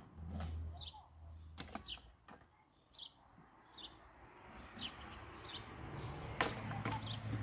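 A small bird giving short high chirps over and over, about one a second. A few sharp knocks cut in, the loudest a little over six seconds in, over a faint low hum at the start and again near the end.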